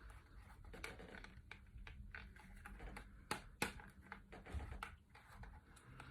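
Faint scattered clicks and taps of small objects being handled, with two sharper clicks a little past halfway.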